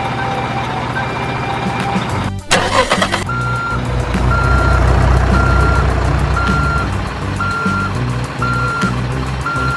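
Truck engine running with a low rumble, cut by a short loud hiss about two and a half seconds in. After the hiss a reversing alarm beeps steadily about once a second over the engine.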